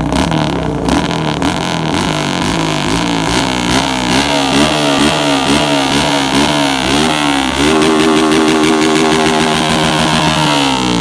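Motorcycle engine revved in quick repeated blips, a little under twice a second, then held at high revs for about three seconds before dropping back near the end.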